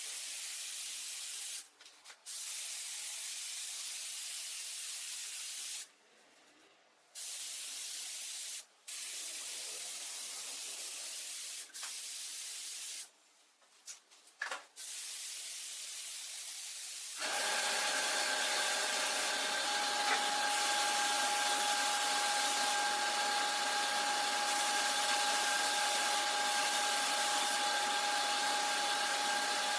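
A compressed-air spray hissing in on-and-off bursts for the first half. Then, from a little past halfway, a steady motor whine.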